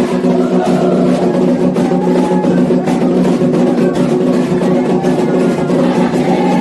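Candomblé ritual music: atabaque hand drums beating a fast, steady rhythm, with voices singing over them.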